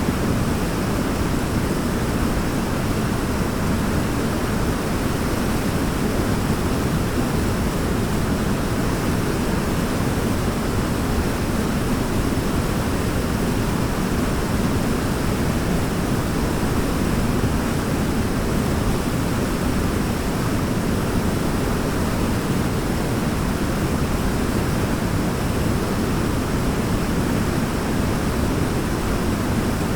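Waterfall rushing steadily, a dense even wash of water noise heaviest in the low range.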